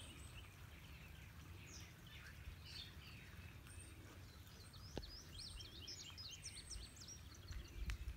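Faint birdsong: scattered high chirps and quick up-and-down whistles, with a dense run of rapid chirps about six seconds in, over a low rumble.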